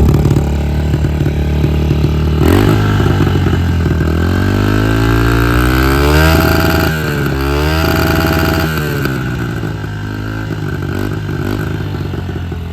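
2015 Honda CRF110's small four-stroke single-cylinder engine running after a kick start. It is revved up and down several times from about two seconds in, then drops back to an idle that is a little high.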